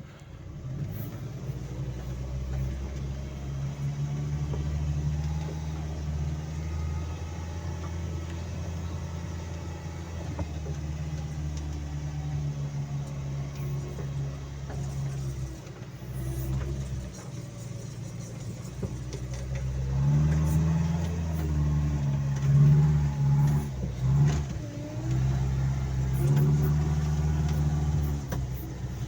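The vehicle's Toyota 1NZ-FE 1.5-litre four-cylinder petrol engine is working under load as it climbs deep snow, its speed rising and falling. It gets louder, with sharper changes in engine speed, about two-thirds of the way in.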